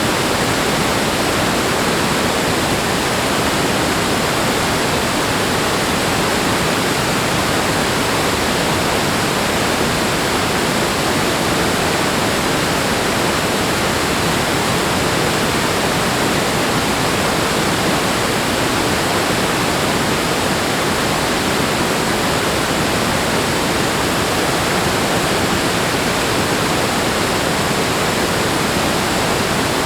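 Rushing water, loud and unbroken, holding a constant level with no swells or pauses.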